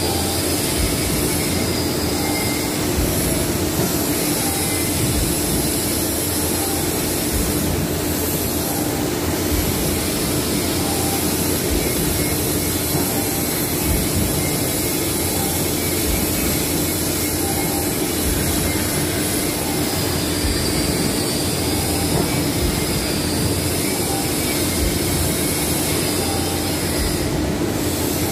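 Industrial machinery running steadily: a continuous roar with a constant hum.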